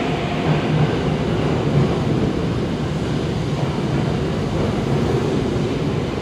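Saitama Railway 2000 series electric train rolling slowly into an underground station: a steady rumble of wheels and running gear as it pulls in to stop.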